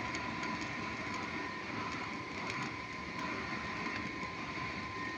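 Melting furnace running: a steady high-pitched whine over a constant rushing industrial noise, with a few faint ticks.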